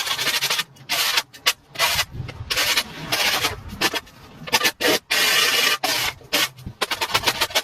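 Repeated scraping strokes of varying length, some long and some quick in rapid runs, with short gaps between them.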